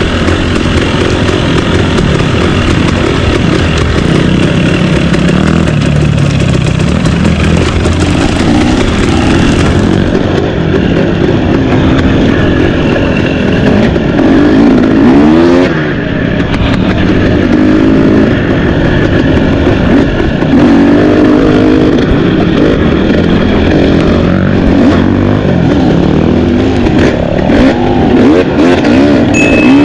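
Trail motorcycle engine running under load, its pitch rising and falling again and again as the throttle is opened and closed.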